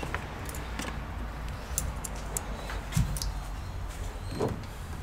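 Scattered light clicks and a couple of soft knocks from hands working on the all-in-one computer's plastic and metal parts during disassembly, over a steady low hum.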